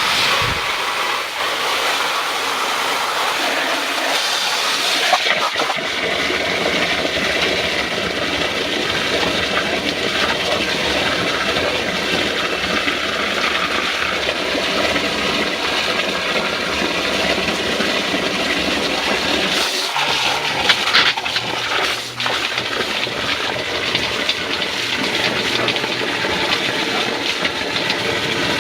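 Water running hard from a hose or supply line into a sump pit to test a newly installed sump pump, a steady rushing splash. About twenty seconds in, a low steady hum joins it.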